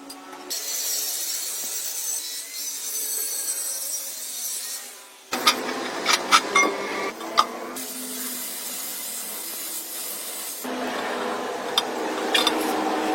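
Rasping, scraping hand-tool work in several runs that start and stop abruptly, with a few sharp clinks partway through.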